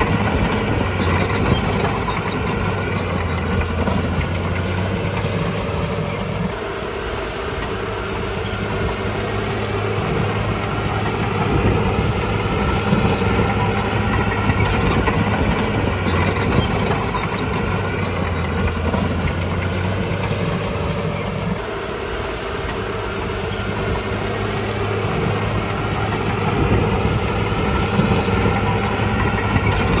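Diesel engine of a crawler bulldozer running steadily under varying load, easing off twice and building up again, with a few sharp metallic knocks.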